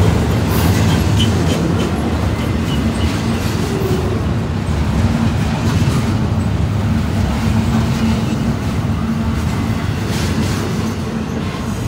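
Double-stack intermodal freight train's container well cars rolling past close by: a steady rumble of steel wheels on rail with a light clickety-clack. The train is coming downgrade with its brakes applied, and its brake shoes are hot enough to smell strongly.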